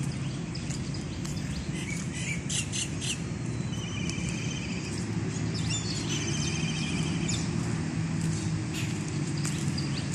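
Wild birds chirping and trilling on and off, over a steady low hum.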